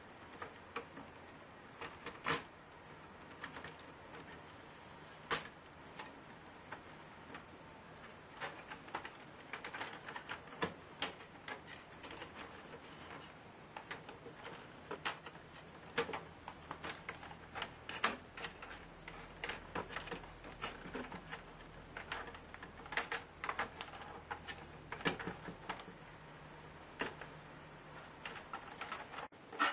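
Irregular small clicks and taps, a few of them sharper, of hands and tools working on a Lenovo Y570 laptop's plastic and metal parts as it is being taken apart.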